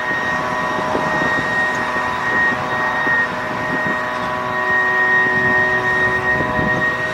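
Steady mechanical drone with several constant whining tones, the highest a thin, shrill whine, unchanging throughout: running machinery.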